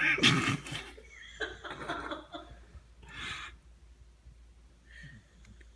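Sleeping basset hound snoring: a loud snorting snore at the start, then two weaker breathy snores, fading to faint breathing near the end.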